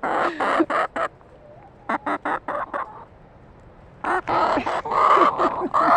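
Chickens squawking and clucking in bursts: a loud burst at the start, a few short clucks in the middle, and louder, drawn-out squawks over the last two seconds.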